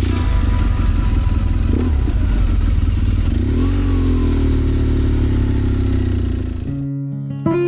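BMW R 1200 GS boxer-twin motorcycle engine running under way, its pitch rising and easing off about halfway through as it revs. The engine sound cuts off abruptly near the end and strummed acoustic guitar music begins.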